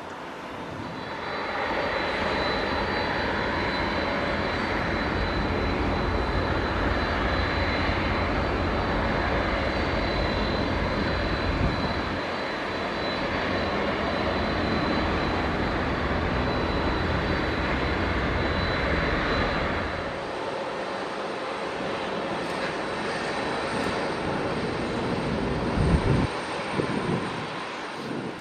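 Jet aircraft engines running loud and steady, with a thin high whine over the roar. The sound swells about a second and a half in and eases off about two-thirds of the way through, with a few brief low knocks near the end.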